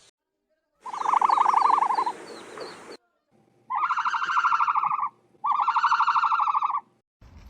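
Ostrich calls: three buzzy, rapidly pulsing calls, each one to two seconds long, separated by brief silences. Faint high chirps of small birds sound under the first call.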